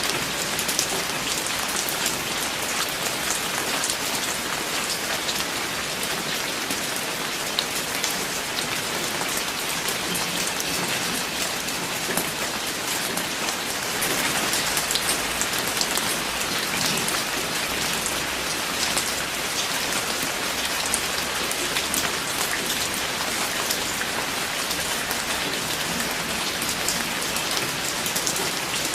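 Steady rain falling, with many close drops ticking on a surface over an even hiss; it grows a little louder about halfway through.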